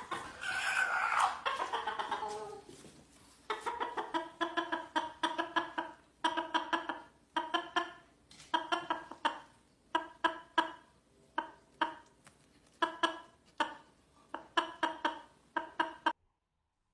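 A chicken calling: a longer falling squawk at the start, then quick runs of short clucks in bursts, which cut off suddenly near the end.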